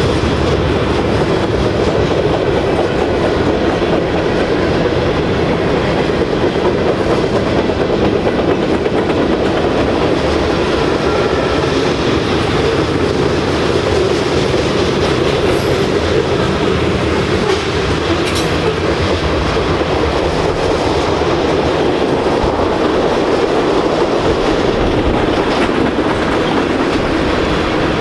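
Freight cars of a mixed manifest train (covered hoppers, gondolas, boxcars, tank cars, loaded flatcars) rolling past close by: a loud, steady rumble of steel wheels on the rails.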